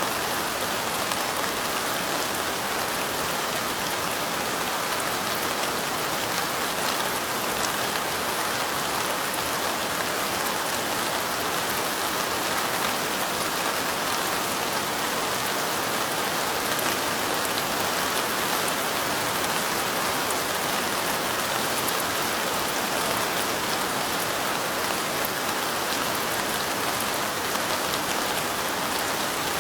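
Steady rain falling: an even, unbroken hiss with faint ticks of individual drops scattered through it.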